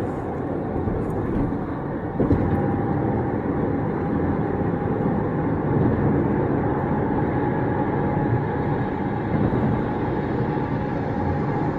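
Road noise inside a moving car at highway speed: a steady rumble of tyres and engine, with a light knock about two seconds in.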